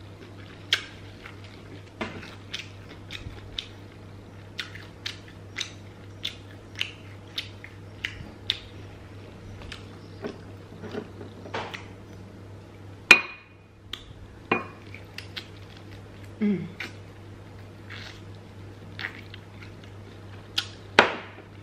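Close-miked chewing of crispy fried chicken: irregular wet mouth clicks and smacks, with a few sharper knocks, the loudest about thirteen seconds in and another near the end, over a low steady hum.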